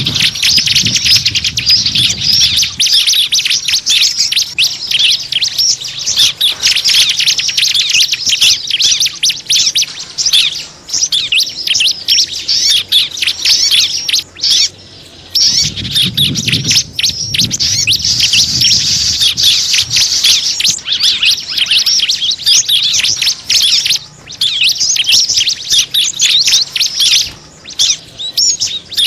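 Small birds chirping and twittering rapidly and densely, a lure call (pikat) for attracting small birds, with a brief break about halfway through.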